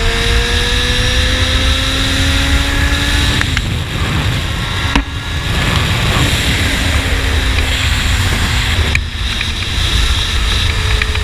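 Honda CBR600RR sport bike with a slip-on exhaust riding under way, its inline-four engine note rising steadily for the first three and a half seconds, then dropping and pulling again, with brief dips in the sound about five and nine seconds in. Heavy wind rush on the microphone runs under the engine.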